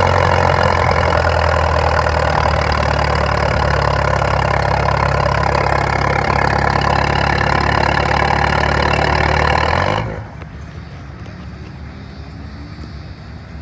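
Farmall M tractor engine running hard at a steady speed under the load of a pull, then throttled back abruptly about ten seconds in to a much quieter idle.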